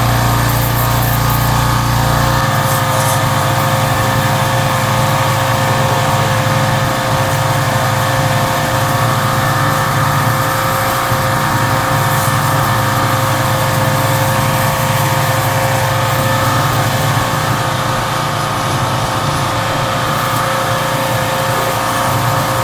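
Pressure washer running steadily, its motor or pump droning under the hiss of the water spray.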